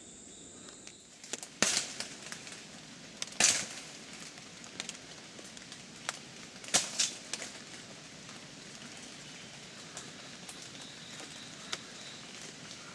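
Twigs and leaves snapping and rustling as someone moves through jungle undergrowth, with a few sharp cracks standing out, the loudest about a second and a half in, three and a half seconds in, and around seven seconds in.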